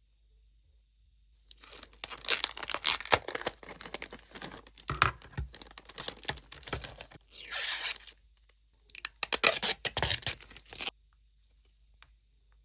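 Packaging being torn open by hand, with rustling and crinkling in uneven bursts and a brief pause partway through.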